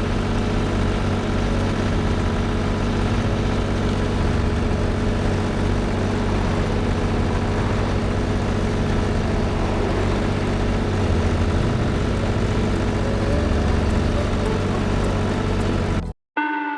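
Tractor engine running steadily while driving, with a dense mechanical rumble. It cuts off abruptly near the end and plucked guitar music begins.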